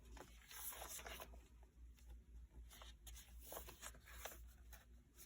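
Faint rustling and soft handling of paper junk-journal pages being turned, with a few light scuffs and taps.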